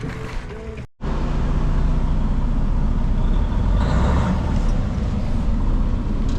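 Truck engine running steadily, a loud low rumble that starts after a brief dropout about a second in.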